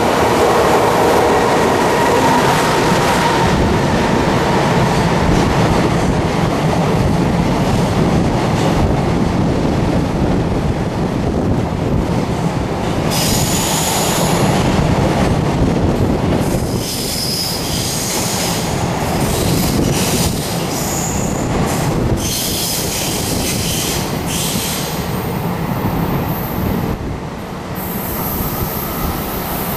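JR Freight EH500 electric locomotive and a long train of container flat wagons passing at speed: a continuous rumble and clatter of wheels on the rails, with a whine from the locomotive in the first few seconds. From about halfway through, high-pitched wheel squeal comes and goes as the wagons run through the curve.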